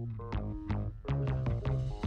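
Electronic jam band playing: synthesizer and a held bass note over a steady beat of drum hits, about three a second.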